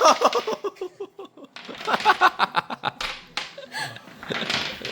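People laughing: a loud voiced cry at the start, then a run of quick, repeated laughs.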